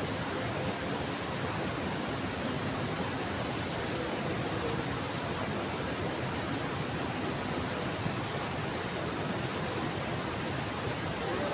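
Heavy rain falling steadily, an even dense hiss of water.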